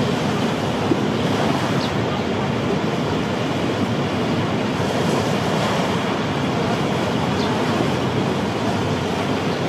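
Waterfall: falling water rushing in a steady, even roar of noise with no change throughout.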